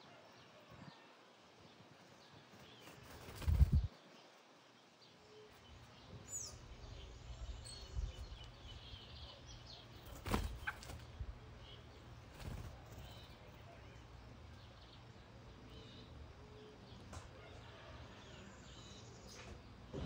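Small birds chirping faintly, with scattered short calls and a quick falling note. A loud low thump comes about three and a half seconds in, a couple of sharp clicks follow later, and a low steady rumble runs underneath.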